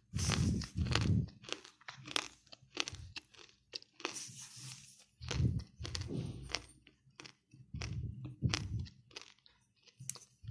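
Close-up chewing of roasted clay: repeated crisp crunches and crackles over duller chewing sounds, loudest just after the start, about five and a half seconds in, and again near eight seconds.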